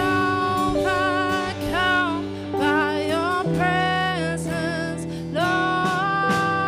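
Live worship music: a singer holds long sung notes with vibrato over guitar and sustained low notes, with a long held note near the end.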